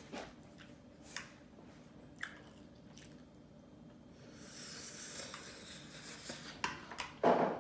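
Close mouth sounds of chewing japchae, Korean glass noodles, with scattered soft clicks and a longer hiss-like stretch about four seconds in. A short, louder sound comes near the end.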